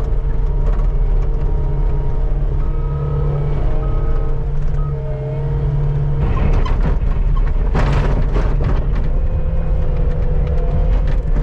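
Skid steer engine running steadily under work, its note shifting about six seconds in, with a brief harsh noise near eight seconds.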